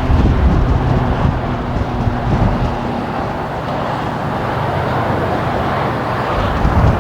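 Boeing 777 twin jet engines on landing approach, a steady jet roar, with strong wind buffeting the microphone in low, uneven gusts.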